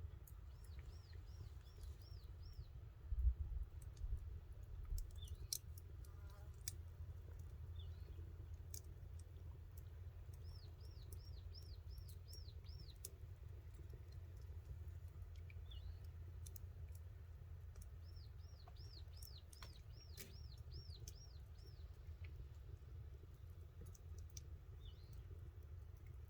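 A bird calling in three runs of quick, high, repeated chirps, with a few single shorter calls between. Under it are a steady low rumble and scattered sharp crackles, like a campfire burning.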